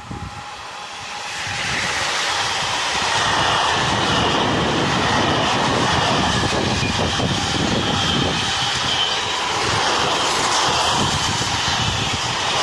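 A train running through the station: a loud rush of wheel and motor noise with a faint whine, swelling over the first couple of seconds and then holding steady.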